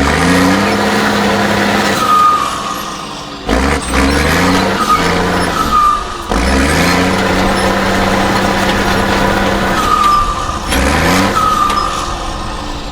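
Off-road trial truck's big diesel engine under hard load, revving up and holding high, then dropping off and picking up again about three times.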